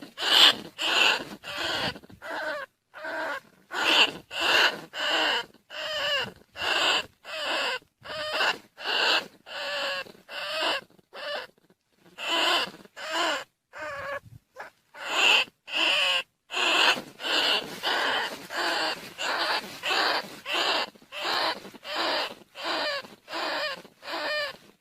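Rat squeaks used as a lure call for rice-field rats and bandicoot rats: short, pitch-bending squeaks repeated about twice a second, with a few brief pauses.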